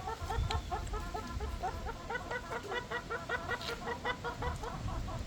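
A flock of hens clucking: many short, rapid clucks from several birds, overlapping, with no pause.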